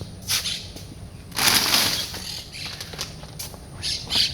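Monk parakeets' wings flapping as birds fly up, in several brief rushes, the longest about a second and a half in.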